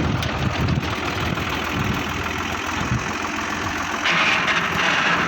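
A 480 tractor's diesel engine running steadily at a low rumble. About four seconds in, a louder hissing noise joins it.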